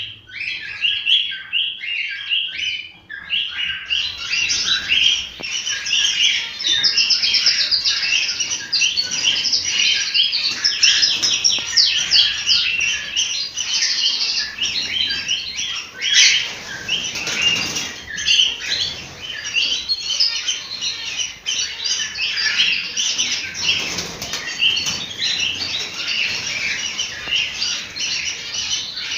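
A flock of cockatiels chirping and calling, many voices overlapping. The chirping grows denser about four seconds in. There are a couple of brief rushes of noise, one about halfway through.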